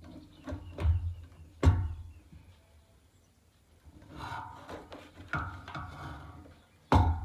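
Dull, heavy knocks and thumps, three of them loud, with rubbing and handling noise in between, as parts are handled during the work on the satellite dish mount.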